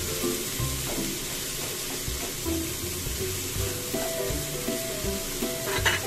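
Tomato, onion and minced beef sizzling in a frying pan as they are stirred with a spatula, with one short, sharper clack of the spatula against the pan near the end. Background music with a melody and a beat runs underneath.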